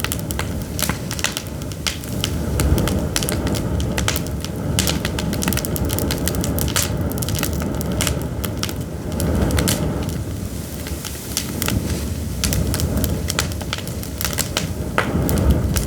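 Pine firewood burning, crackling and popping irregularly and often over a steady low rumble.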